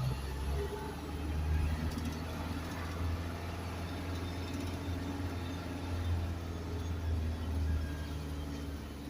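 Diesel engine of an Isuzu garbage truck running steadily under way, a deep, even hum that eases off near the end.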